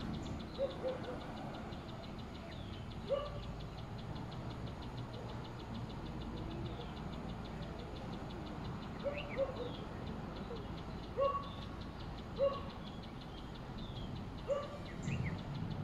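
Birds chirping outdoors: short rising calls every second or two, over a steady, fast-pulsing high insect buzz and a low background rumble.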